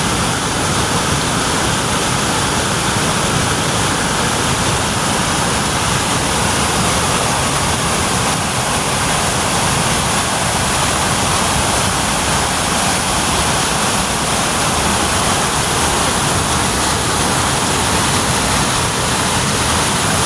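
Waterfall: water pouring down a mountainside, making a loud, steady rush with no breaks.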